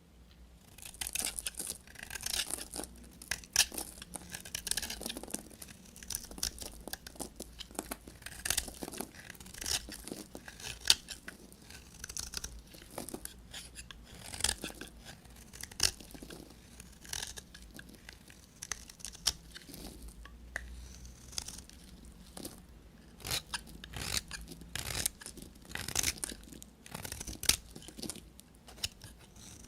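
A knife cutting through bars of soap: a continuous run of short, dry, crunchy scraping and cracking strokes.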